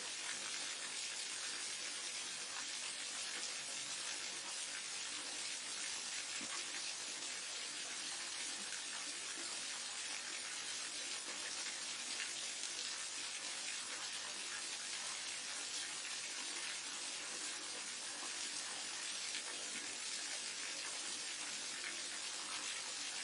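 Small forest waterfall and stream running steadily, a constant hiss of falling and splashing water.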